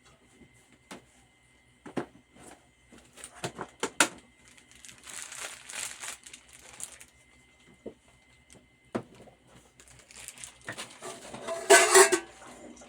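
Kitchen handling noises: scattered light knocks and clicks of pots and utensils, with stretches of crinkly rustling, the loudest near the end.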